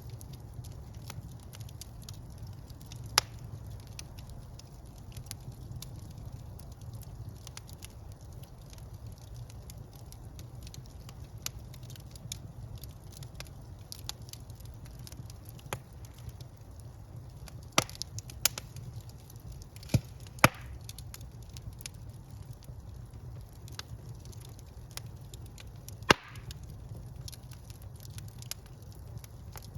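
Wood fire burning in a fireplace: many small crackles over a steady low rumble, with a handful of loud, sharp pops scattered through, two close pairs of them in the middle.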